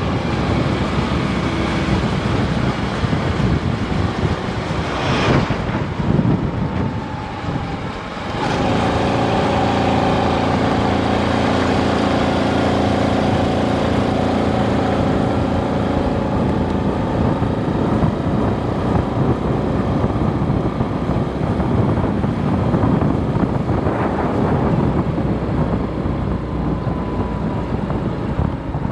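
Daelim Citi 100 motorcycle engine running under way, with road and wind noise; the engine pitch falls about seven seconds in, then holds a steady tone for several seconds.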